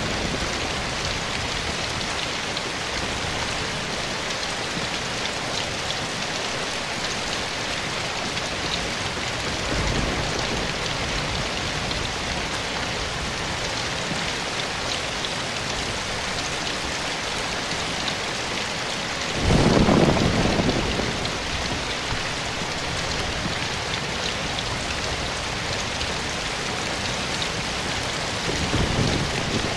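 Steady rain falling. Three short low rumbles of thunder rise out of it: a small one about ten seconds in, the loudest about two-thirds of the way through, and another near the end.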